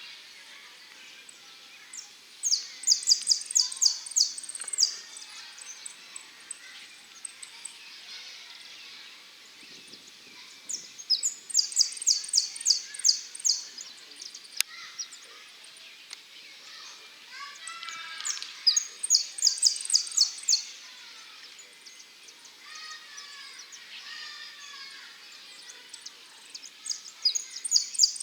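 Male saffron finch singing: four bursts of rapid, repeated high notes, each two to three seconds long and about eight seconds apart, the last cut off at the end. Softer, lower chirping from other birds fills the gaps.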